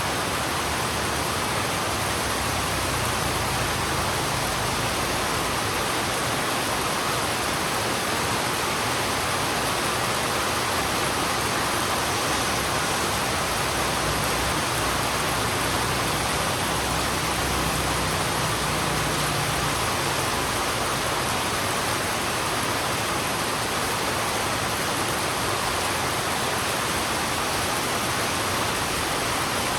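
Heavy rain falling steadily on a road, an even hiss with no breaks. A faint low rumble swells and fades about midway.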